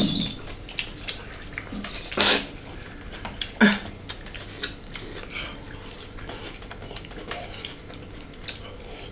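Close mouth sounds of eating a pork and fresh-greens salad by hand: wet chewing and lip-smacking with small clicks, and a few louder, sharp mouth noises about two and three and a half seconds in.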